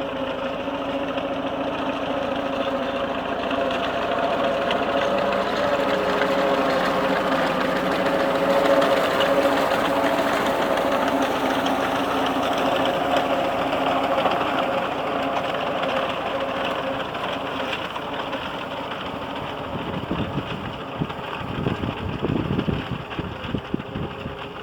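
Vintage tractor engine running steadily while pulling a reaper-binder, growing louder through the middle and easing off after. Irregular low rumbles come in near the end.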